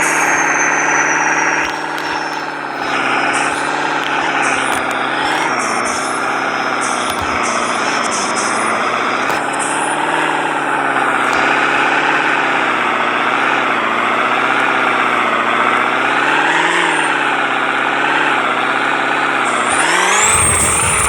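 Vehicle engine running steadily, its pitch wavering slightly, then rising sharply near the end as it is revved.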